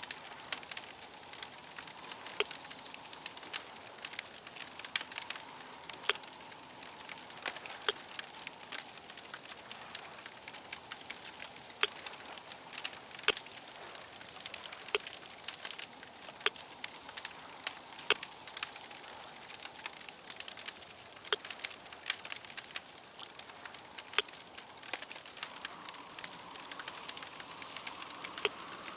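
Crackling fire: a steady hiss with frequent sharp, irregular pops and crackles.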